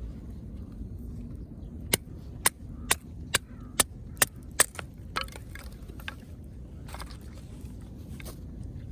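A run of about eight sharp wood cracks, roughly two a second, over a steady low rumble, then a few fainter ticks.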